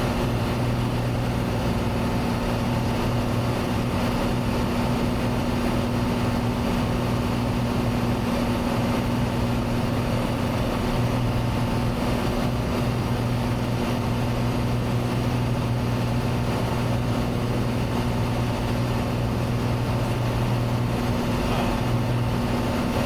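Cessna 182T's six-cylinder Lycoming IO-540 engine and propeller droning steadily in cruise, heard inside the cabin as a constant low hum with a noisy wash above it.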